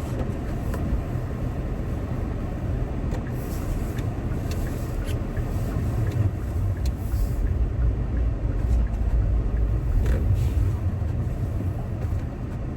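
Car cabin road and drivetrain noise while driving on a snowy road: a steady low rumble that grows a little louder in the middle, with scattered faint clicks.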